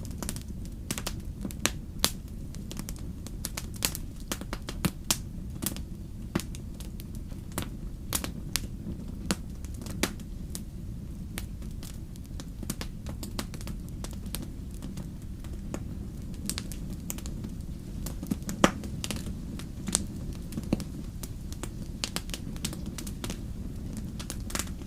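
Wood fire crackling and popping: irregular sharp snaps of burning logs over a steady low rumble of flame.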